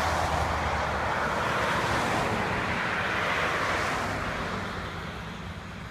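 Porsche 918 Spyder driving past at speed, a loud rushing car noise that holds for about four seconds and then fades as the car goes away.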